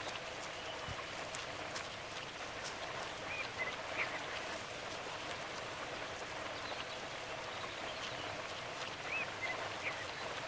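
Soft, steady outdoor background hiss with scattered small crackles and a few faint, high, short chirps.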